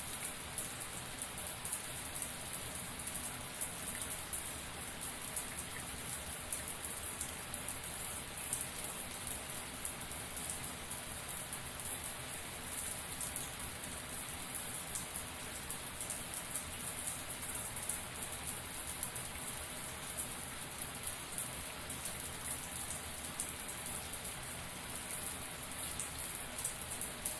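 Shower water spraying steadily, many fine drops pattering on a hard surface in a dense, even hiss.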